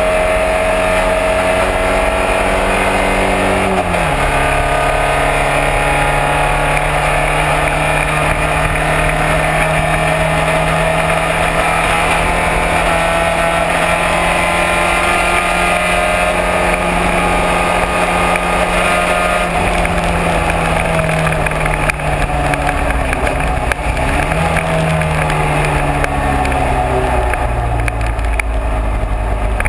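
Classic racing car's engine running hard at speed: the pitch drops sharply about four seconds in as it shifts up, holds steady for a long stretch, then falls off over the last ten seconds with a short blip of revs in between, as the car slows and shifts down.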